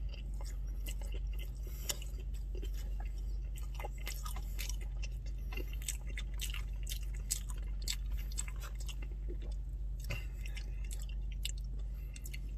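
A person chewing a mouthful of crispy chicken sandwich with the mouth closed: soft, wet, irregular mouth clicks over a steady low hum.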